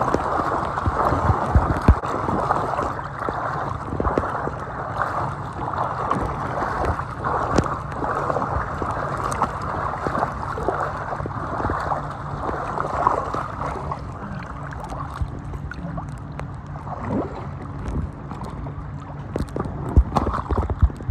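Water sloshing and gurgling around an inflatable raft as it is moved through the water, with small splashes here and there.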